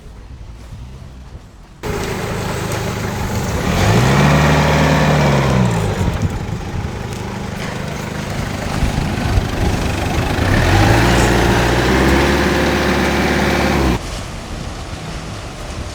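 A vehicle engine running, revving up and easing back down twice. The sound starts abruptly about two seconds in and cuts off sharply near the end.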